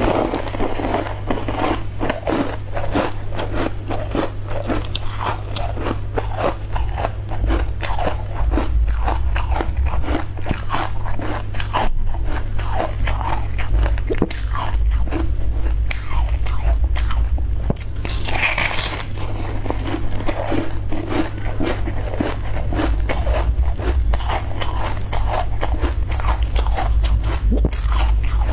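Close-miked eating of a soft, spongy steamed cake: bites and steady, irregular chewing mouth sounds, over a constant low electrical hum.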